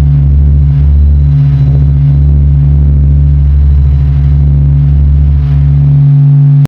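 Space sonification: spacecraft-recorded plasma-wave or electromagnetic signals converted to audio, heard as a loud, deep, steady drone of several held low tones with faint irregular pulsing. The lowest rumble thins out near the end.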